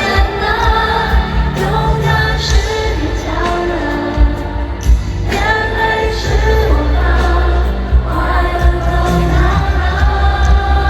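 A Mandopop song performed live in an arena, recorded from the audience floor: sung vocals over a heavy bass line and drums.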